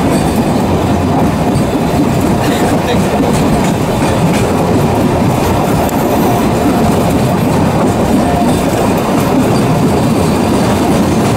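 Diaz Express tourist train running along the track, heard from inside a carriage: a steady, loud rumble and rattle of wheels on the rails.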